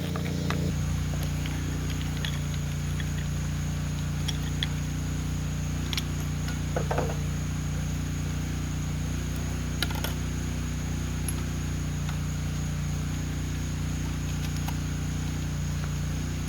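A machine running steadily with a low, even hum, with a few light clicks and taps about 6, 7 and 10 seconds in.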